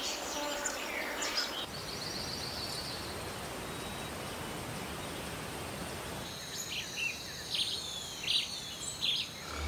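Rainforest ambience: a steady hiss with scattered bird calls. A high trill comes about two seconds in, and a cluster of sharp chirps and down-sweeping calls over a steady high buzz fills the last few seconds.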